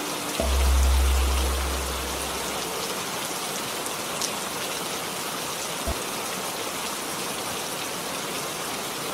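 Steady rain falling, an even hiss of drops. About half a second in, a deep low boom swells and fades away over about two seconds.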